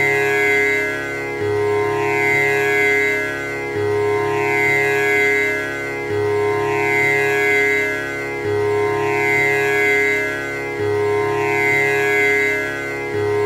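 Tanpura drone: its strings plucked one after another in an unbroken cycle that repeats about every two and a half seconds, each note buzzing and sustaining into the next.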